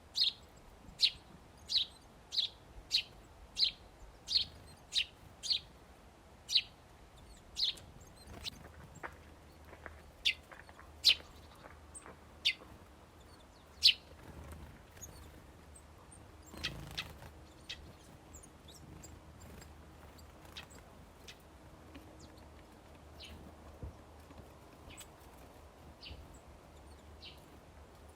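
A small songbird chirping short, high single notes, at first in an even run of about one and a half a second. The chirps then thin out and grow fainter, with a short burst of noise about 17 seconds in.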